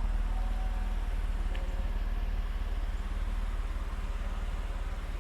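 Car engine running steadily, a low even rumble.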